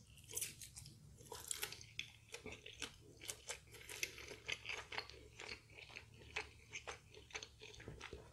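Close-miked eating of crispy fried chicken: a bite, then steady chewing with faint crisp crunches of the batter, about three a second.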